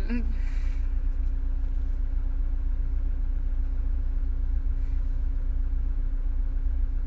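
Car engine running, heard from inside the cabin: a steady low rumble with a steady hum over it.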